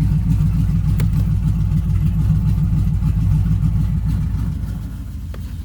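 Pickup truck's engine, fitted with a cam meant to chop, idling loud through open exhaust cutouts with an even low pulse. About four and a half seconds in it turns quieter as the cutouts close.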